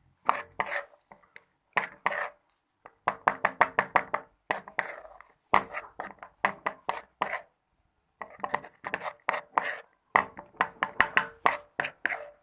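A stirrer working a thickening white-glue and liquid-soap slime mixture in a container after the activator has gone in. It makes quick, irregular clicking and tapping strokes in bursts, with short pauses between them.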